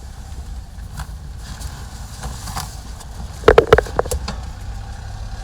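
Steady low rumble of a vehicle running, with a quick cluster of sharp knocks and clatter about three and a half seconds in.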